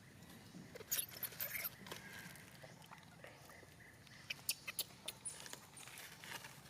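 Monkeys moving and handling things: scattered quick clicks and rustles in two clusters, about a second in and again after about four seconds, with faint high squeaks between them.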